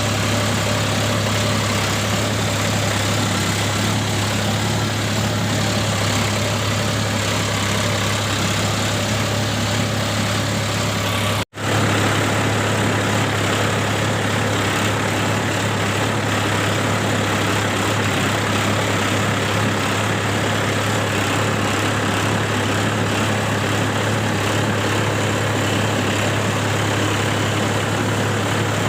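Mahindra Yuvo Tech+ 415 DI tractor's four-cylinder diesel engine running steadily with a deep, even hum, cut off for a split second about a third of the way in before carrying on unchanged.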